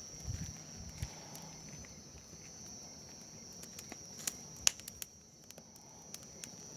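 Wood bonfire just catching, crackling with a few sharp, scattered pops, over a steady high-pitched whine like insects.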